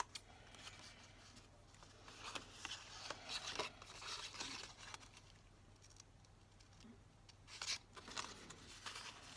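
X-Acto craft knife blade scraping through paper on a cutting mat in faint, short strokes, mostly about two to four seconds in and again near the end.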